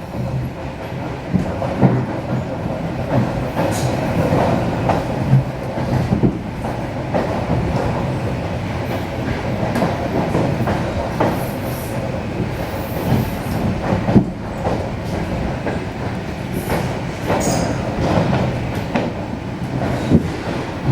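ED4M electric multiple unit running on the track: a steady rumble with irregular clacks of the wheels over rail joints, and a few brief high wheel squeals.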